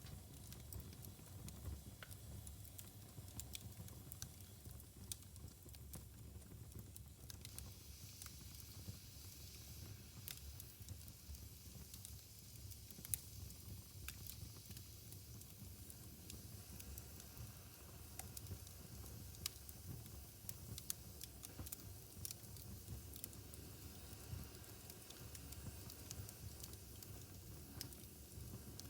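Wood fire burning in a fireplace, faintly crackling with scattered small pops and snaps, and one sharper snap about thirteen seconds in. A soft hiss grows from about seven seconds in.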